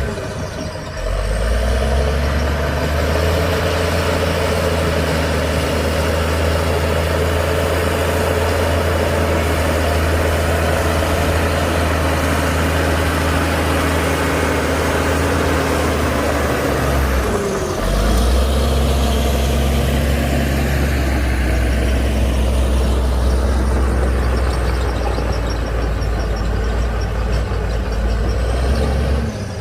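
Heavy diesel engine of earthmoving machinery running steadily with a deep, even drone. It drops out briefly about seventeen seconds in, then resumes.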